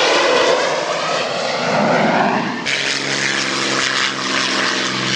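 An aircraft rushing past on a low fly-past. About halfway through, an abrupt cut gives way to the steady drone of a piston-engined propeller aircraft.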